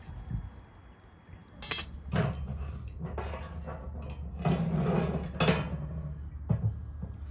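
Dishes and utensils clinking and clattering in a run of handling knocks, starting about a second and a half in and busiest near the middle, over a low steady hum.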